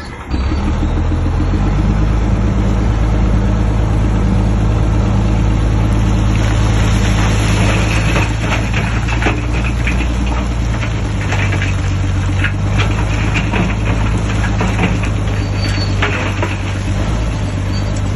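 Bulldozer's diesel engine running steadily and loudly. Irregular clanking and rattling joins it about six seconds in and fades near the end.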